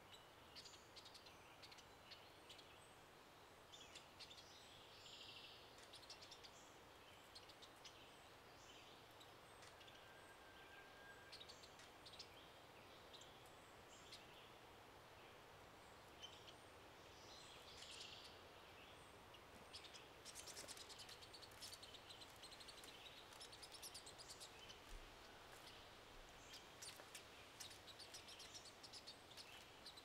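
Faint woodland ambience with scattered short, high bird chirps and ticks, which come much more thickly in the last third.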